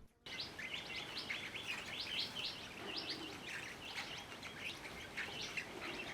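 A flock of mulga parrots in incessant chatter: many short, overlapping high chirps.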